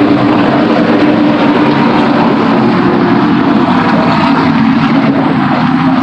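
NASCAR stock cars' V8 engines running at racing speed, a loud, unbroken drone with a steady low engine note, overloading the microphone.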